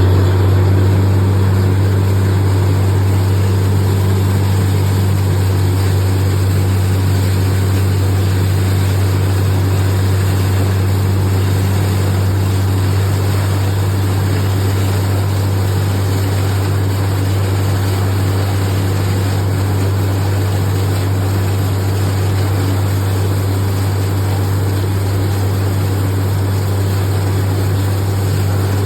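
A loud, steady low hum with a rushing noise over it, never changing in pitch or level.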